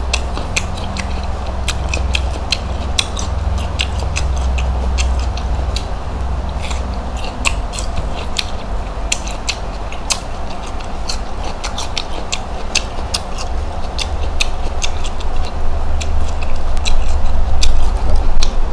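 Close-miked eating of coconut-roasted shrimp: shells being peeled and the meat chewed, making many small, irregular clicks and crackles over a steady low hum.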